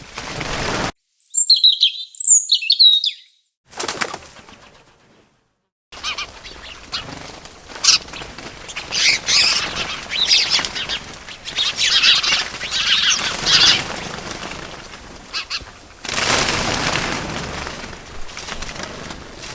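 Small birds chirping in short high calls, with wings flapping. The sound comes in separate snippets: a few clear chirps about a second in, a brief silent gap, then busy chirping over a rushing flutter of wings, with a louder flurry of flapping near the end.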